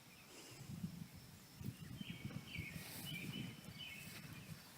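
Faint field ambience: a few short bird chirps over low, uneven rumbling.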